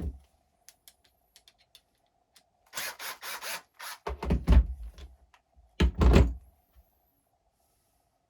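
Clicks, clatter and knocks of RC truck parts being handled and test-fitted, in three bursts, the last two with heavy thumps, with small scattered ticks between them. A faint steady hum runs underneath.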